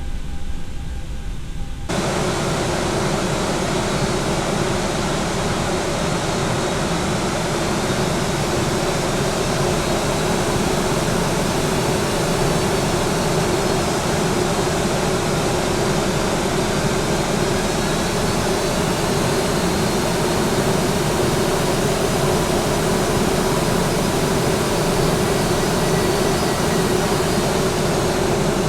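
Boeing 737-800 jet engines running loud and steady: a dense rush of noise with a hum underneath, which comes in abruptly about two seconds in and holds.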